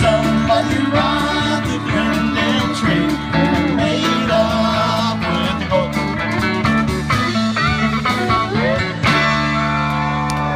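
Live country-rock band playing a song's instrumental passage: electric guitars and drums, with sliding pedal steel guitar lines.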